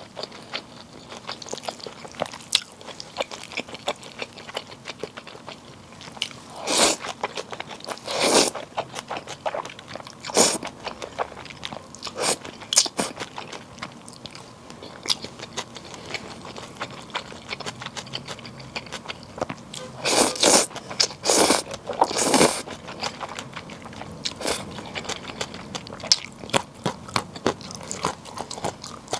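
Close-miked eating of bibim naengmyeon, spicy cold noodles: continual wet chewing and crunching with many small clicks, broken by a few louder, longer slurps, two or three together about a third of the way in and again past the middle.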